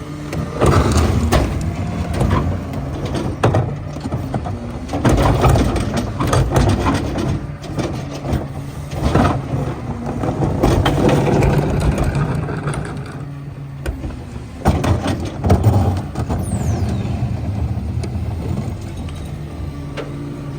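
Heil PowerTrak rear-loader garbage truck, a CNG Crane Carrier, running its packer on heavy trash: the engine drones steadily under the hydraulic load while the load is crushed, with repeated cracks, crunches and clatter that come in loud clusters.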